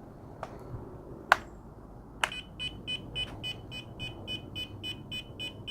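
A few light plastic clicks, then a fast run of short, high electronic beeps, about four a second, from the WLToys V911 RC helicopter's radio gear as it is switched on and armed.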